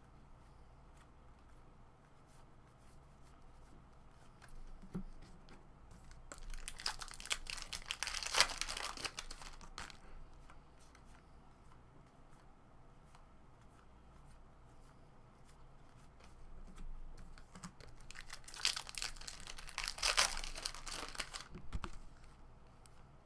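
Baseball card pack wrappers being torn open and crinkled, in two bursts of a few seconds each: one about a third of the way in and one near the end. Faint scattered ticks lie in between.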